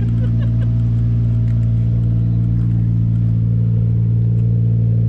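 Single-turbo 2JZ-GTE inline-six in a Lexus SC300 idling steadily, with no revving.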